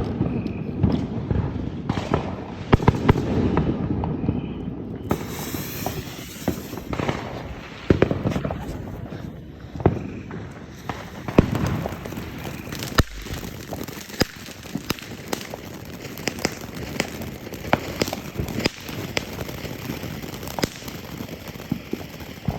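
Consumer fireworks going off: a fast, uneven string of pops and crackles with occasional louder bangs, and a steady hiss joining about five seconds in.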